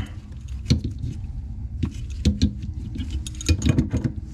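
Irregular metallic clicks, clinks and knocks of hand tools working on a leaking under-sink shutoff valve, with a low steady hum underneath.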